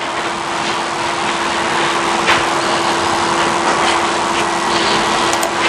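A steady hiss with a constant low hum running under it, unchanging like a small motor or fan.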